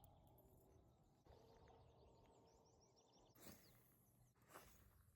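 Near silence: faint outdoor ambience with a few faint, high bird chirps and a couple of brief soft rustles in the second half.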